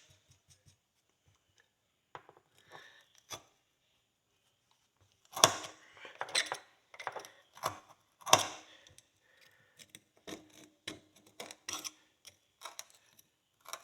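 A hand pick scraping and prying old packed dirt off a horseshoe, in irregular short scrapes and clicks. The loudest strokes come about five and a half and eight seconds in.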